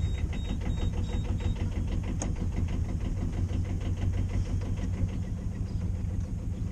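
Sailboat's auxiliary engine running steadily under way, a rapid, even chugging.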